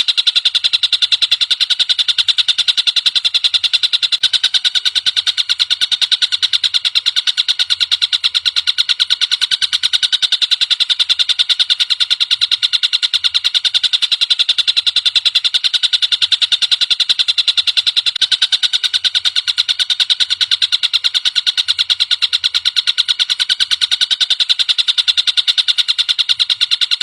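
Recorded calls of a tengkek buto, a large kingfisher, played as a tutor song for cage birds: a loud, high, fast unbroken rattling trill that keeps an even pace and level throughout.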